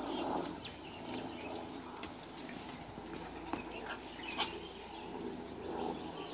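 Quiet outdoor ambience: a steady low hum with scattered short bird chirps and a few small clicks and rustles.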